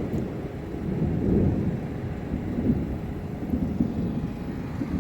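Thunder rumbling low and unevenly, swelling about a second in and again near three seconds.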